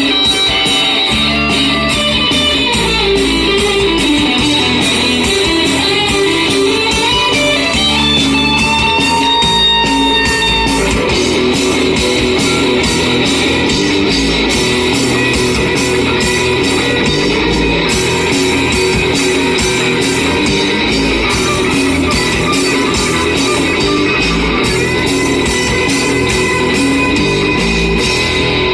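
Live rock band playing an instrumental passage: electric guitars over bass and a steady drum beat, with a lead guitar line sliding between notes about a third of the way in.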